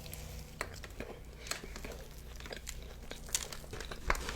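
Faint crinkling and rustling of food packaging, with scattered small clicks and crackles as a cookie is handled.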